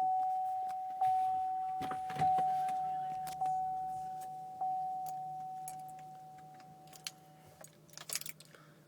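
Chevy Tahoe's warning chime dinging five times about a second apart, each ding ringing out, as the key is turned on before a cold start. A low steady hum comes in about two seconds in, and keys rattle and click near the end.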